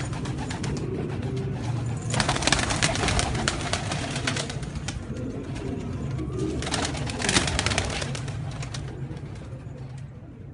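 Homing pigeons cooing, with two spells of rapid clattering and rustling, about two seconds in and again about seven seconds in.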